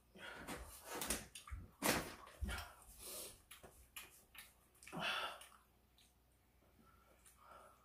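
Close-up eating sounds: irregular wet smacks, clicks and chewing noises from someone eating braised pork ribs with kimchi. They are busiest in the first five seconds and then die down to a few faint sounds.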